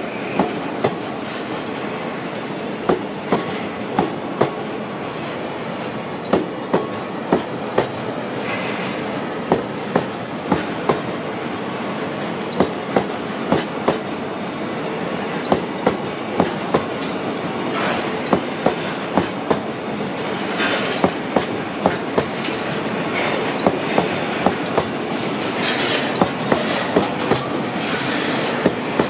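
Freight train of tank cars rolling past slowly, its wheels clicking over the rail joints in clusters of three or four every few seconds over a steady rumble. The clusters come a little closer together later, as the departing train picks up speed.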